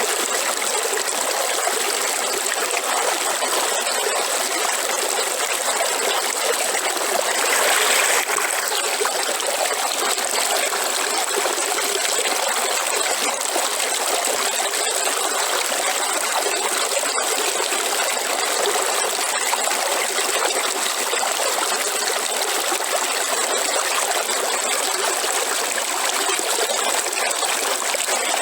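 River water flowing and trickling over rocks, a steady rushing with a brief louder surge about eight seconds in.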